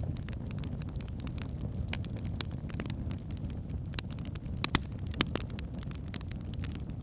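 Wood fire in a fireplace: logs burning with a steady low rumble and irregular crackles and pops, two sharper pops a little after the middle.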